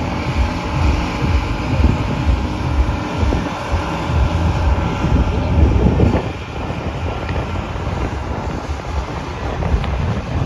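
Pulling-tractor engine running hard with a deep, heavy rumble. About six seconds in, the note sweeps up and then drops back to a lower, rougher rumble, with wind buffeting the microphone.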